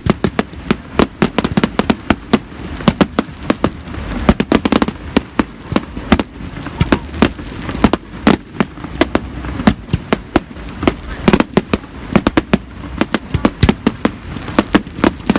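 Fireworks display going off in rapid, irregular bangs and crackles, several a second, over a low rumble.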